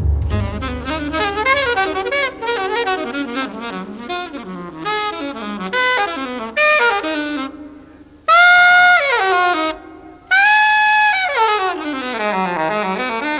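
Alto saxophone playing a jazz ballad cadenza, nearly alone: quick runs, two long held high notes in the middle, then a long run down to the low register and back up.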